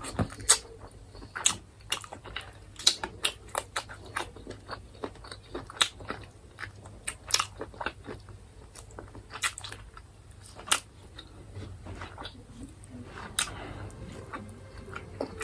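Close-miked mouth sounds of a person eating chicken: chewing and biting with many sharp, irregular smacks and crunches, thinning out near the end.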